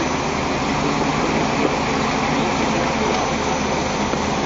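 Off-road vehicle engine running steadily, under a loud, even rushing noise.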